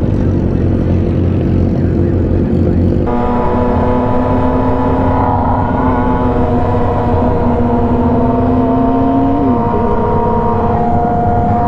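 Yamaha R6's inline-four engine running while riding. About three seconds in, the engine note gets stronger and brighter and then holds steady at constant revs, with a short drop in pitch near the end.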